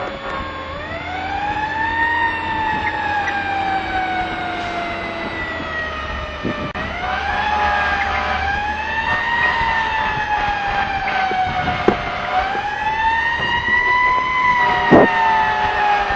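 Fire truck siren wailing, its pitch rising and falling slowly about every four to five seconds, over the low rumble of the truck's engine.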